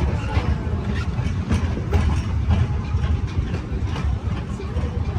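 Severn Lamb tourist train, driven by a diesel motor and hydraulic pump, running along its track: a steady low engine rumble with irregular clicks and rattles from the wheels and cars, a few each second.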